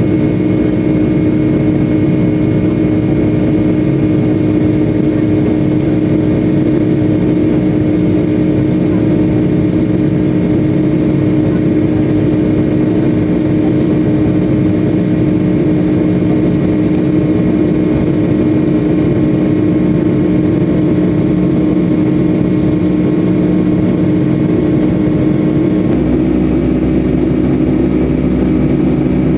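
Boeing 757-200 jet engines running steadily, heard inside the passenger cabin as a loud, even drone with a strong hum. About 26 seconds in, the hum drops in pitch and the low rumble grows stronger.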